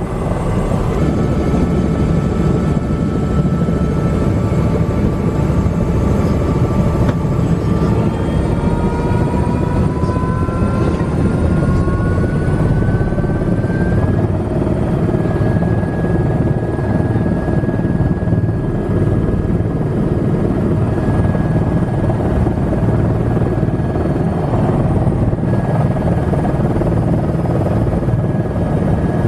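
Helicopter turbine and rotor running steadily, heard from inside the cabin, with whining tones that rise in pitch from about eight seconds in and settle about six seconds later.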